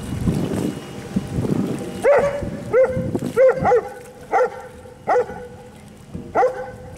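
Wind buffeting the microphone, then a dog barking from about two seconds in: about seven short barks, some in quick pairs.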